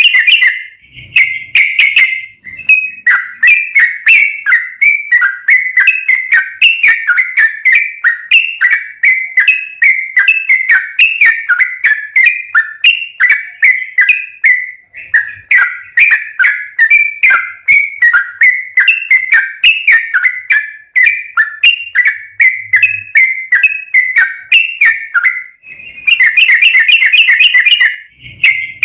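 Yellow-vented bulbul (trucukan) singing loudly: a long run of short, bubbly, falling whistled notes, about two a second, broken by a denser, faster chattering phrase at the start and again near the end.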